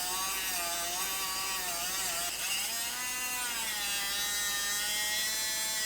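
Power ratchet running, spinning out the door hinge bolts; a steady motor whir whose pitch wavers up and down as the trigger is worked.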